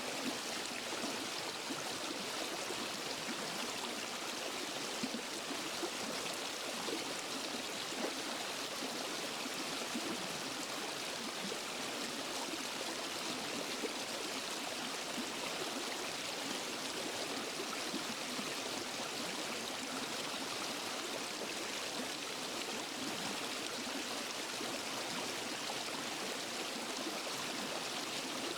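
Waterfall and forest stream running steadily, a constant rushing and splashing of water with small flickers of splashes.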